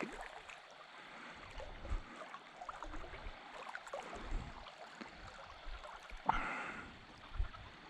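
Faint shallow water moving and gurgling, with small scattered clicks and a brief splash-like burst near the end.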